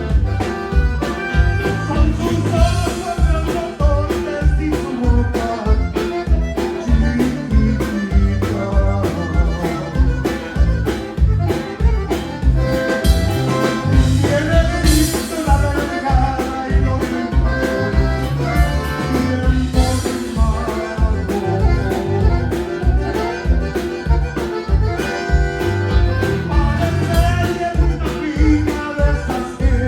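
Live Tejano band music with a steady bass-and-drum beat.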